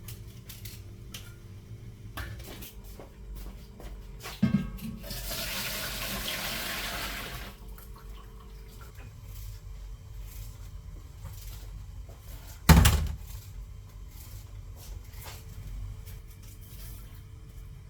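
Water pouring for about two and a half seconds, starting just after a knock. A loud, sharp thump comes near the end.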